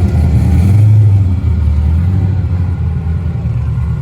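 Drag-racing car's engine: a loud low rumble that swells about a second in and then slowly fades.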